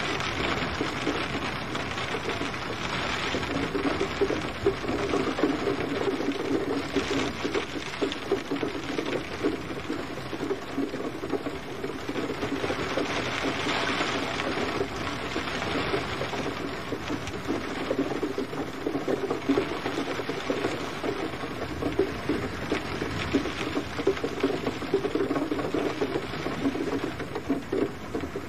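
Steady gentle rain, with many close, irregular drop hits on a surface.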